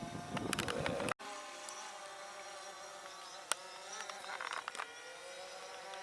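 Electric motors and propellers of a small RC aircraft giving a steady buzz with several pitches that waver slightly. It follows low wind rumble on the microphone that cuts off abruptly about a second in.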